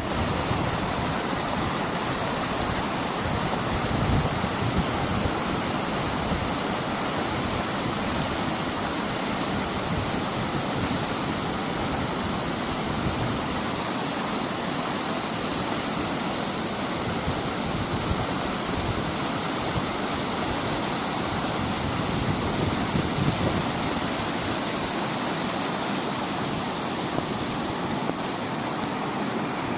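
Steady rush of flowing water, an even hiss without pauses or changes.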